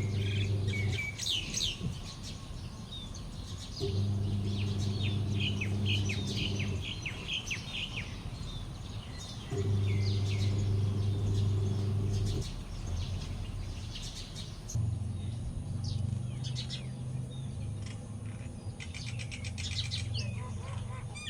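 Common myna calling: a busy, varied run of short chirps, clicks and whistles. A low steady hum cuts in and out several times underneath and is the loudest sound when it is on.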